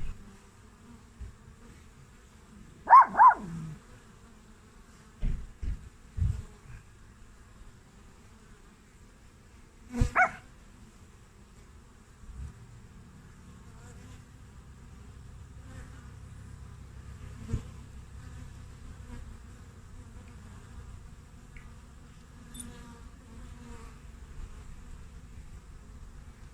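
Honeybees (Apis mellifera) buzzing in and out of a hive entrance in a steady hum. It is broken by a few brief louder sounds: a quick double one about three seconds in, a few low thumps a couple of seconds later, and another short one near ten seconds.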